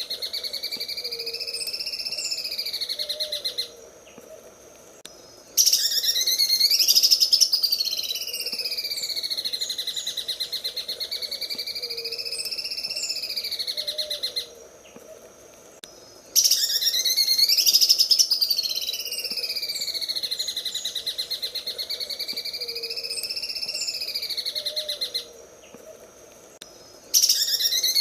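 Cucak ijo (green leafbird) singing its rapid, machine-like 'sewing machine' trill, wavering up and down in pitch. The same long phrase of about nine seconds repeats after short gaps of about two seconds, twice in a row and starting a third time near the end.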